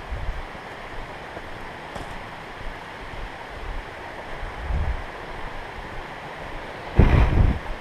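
Steady rushing of a creek alongside the trail, with a few low dull thumps on the microphone, the loudest about seven seconds in.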